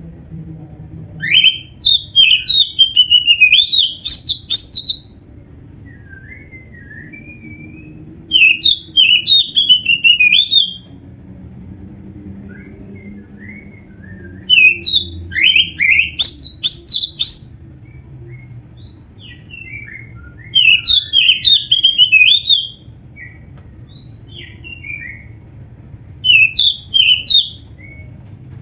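Oriental magpie-robin singing a loud, varied song, as kept birds do when in full song: five bursts of rapid whistled and scratchy phrases, each lasting two to three seconds, with quieter twitters in between. A faint low hum runs underneath.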